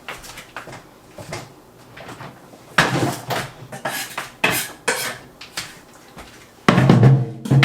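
Kitchen dishes and cutlery clattering as they are handled and set down: a series of clinks and knocks, the loudest near the end.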